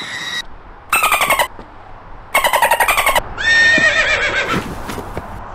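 A horse whinnying three times in quick succession: two short quivering whinnies, then a longer one that falls in pitch.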